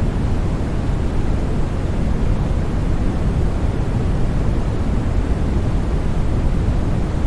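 Steady synthetic white-noise sleep sound for babies, weighted toward the low end: an even, deep hiss that does not change.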